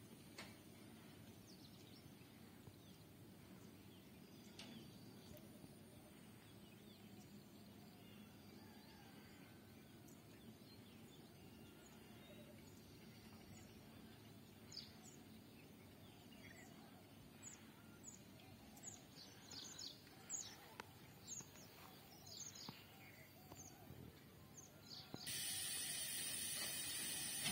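Quiet outdoor sound: small birds chirping in quick, short, falling calls from about halfway through, over a faint low rumble. Near the end a steady hiss cuts in abruptly.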